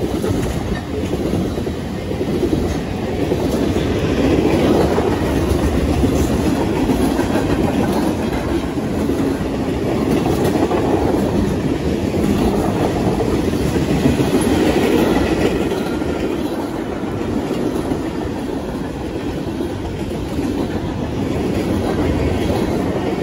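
Freight train cars rolling past: a steady rumble of steel wheels on the rails that keeps going throughout, with no locomotive horn.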